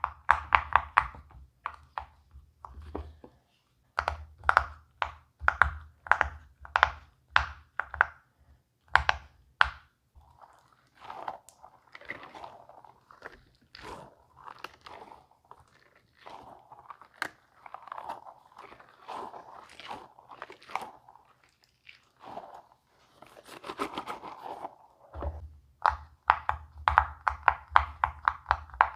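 Silicone pop-it fidget toy bubbles being pressed, making a string of quick soft pops and clicks. The pops come in fast runs near the start and near the end, with softer rustling and squeezing sounds in between.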